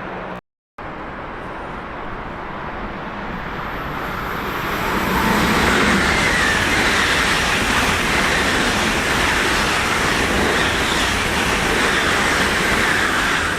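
A train running through the station. Its rolling noise swells over a few seconds and then stays loud and steady.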